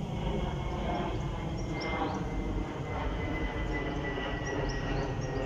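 Distant passenger train running along the line: a steady low rumble with a thin high whine that slowly drops in pitch.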